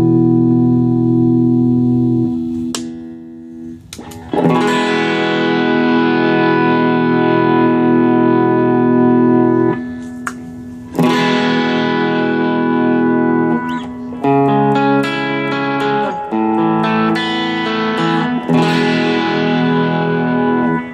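Electric guitar played through a Joyo American Sound amp-simulator pedal and a Boss CS-2 compressor: a series of strummed chords, each let ring out for a few seconds before the next is struck.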